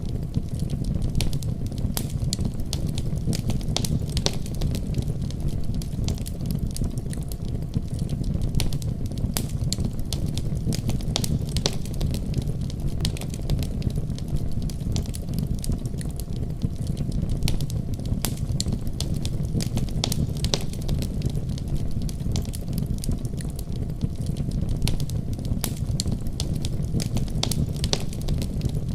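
Wood fire in a fireplace, crackling steadily with frequent sharp pops and snaps over a continuous low rumble of the burning.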